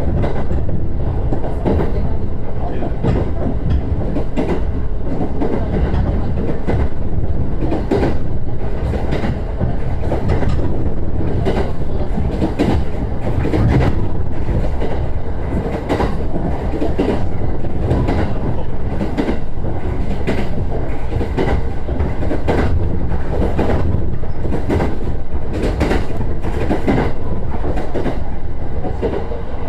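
JR East E129 series electric train running at speed: a steady low rumble with repeated clacks of the wheels over rail joints.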